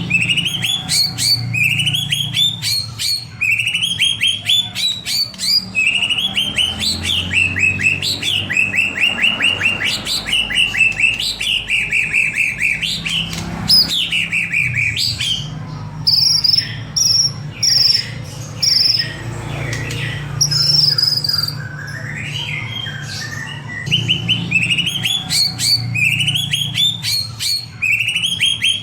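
White-rumped shama (murai batu) singing: loud, rapid runs of repeated chirping notes, broken about halfway through by a few clear high whistles before the fast chirping returns.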